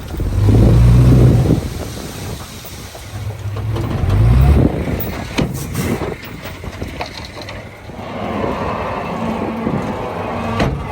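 Heavy diesel engine revving up hard twice under load, the second rise climbing in pitch, then running more steadily, with a few sharp knocks in between.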